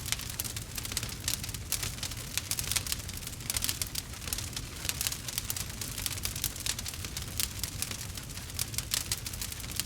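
Wood campfire crackling: dense, irregular snaps and pops over a steady low rumble.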